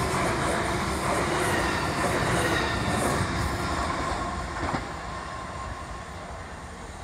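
South Western Railway Class 450 Desiro electric multiple unit running past and away, with steady wheel-on-rail noise that fades from about four seconds in. A single sharp clack comes about five seconds in.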